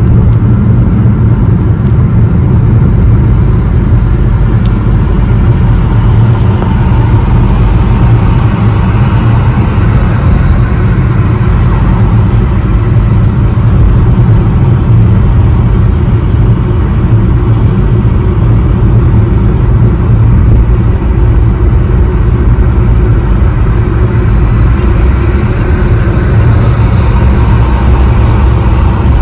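Car driving at highway speed, heard from inside the cabin: a steady low rumble of engine and tyre noise.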